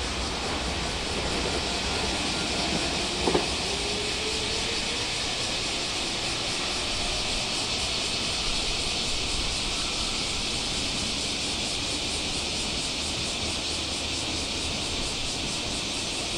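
Train at a station platform making a steady hiss that does not change, with one short sharp click about three seconds in.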